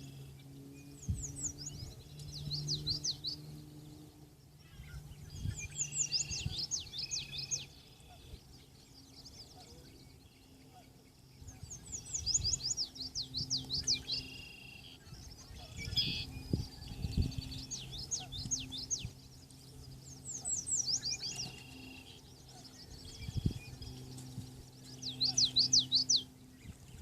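A songbird singing short bouts of rapid high sweeping notes, one bout every few seconds, over a faint low hum.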